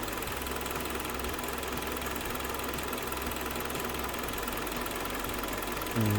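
Kia Sportage's rebuilt G4KD 2.0-litre four-cylinder petrol engine idling warm and steady, with no knock left after the repair. Near the end a brief louder sound falls in pitch.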